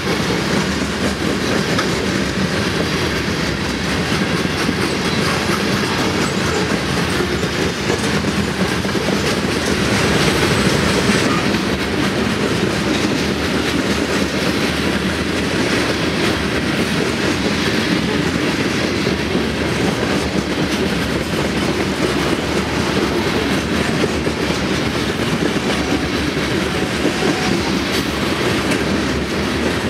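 Norfolk Southern freight train's covered hopper cars rolling past close by, a steady rumble and rattle of the cars with the clickety-clack of their wheels on the rails.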